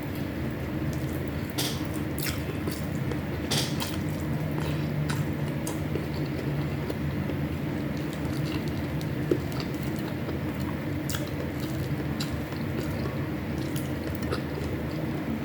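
Eating sounds close to the microphone: chewing with scattered sharp clicks now and then, over a steady low background hum.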